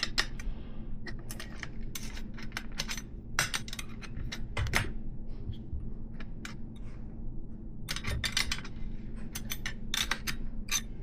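Irregular small metallic clicks and clinks of a cone nut being worked by hand onto a 3/8" solid BMX hub axle, coming in two bunches partway through and near the end.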